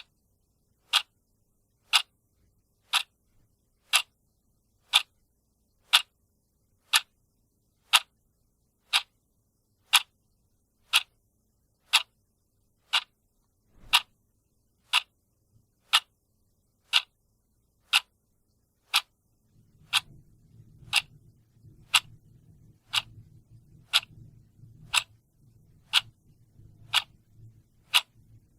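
Clock ticking steadily, one sharp tick each second. A faint low rumble joins in about two-thirds of the way through.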